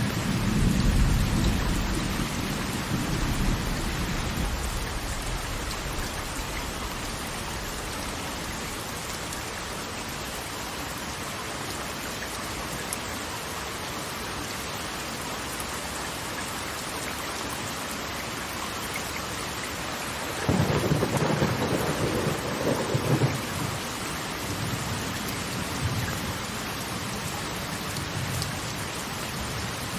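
Steady rush of falling water, with a deep rumble fading away over the first few seconds and another rising briefly about twenty seconds in.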